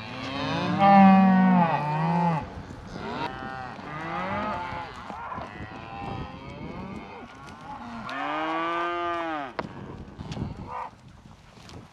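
Cattle in a gathered herd mooing, several calls one after another and partly overlapping. The loudest call comes at the start, and a long one comes about eight seconds in.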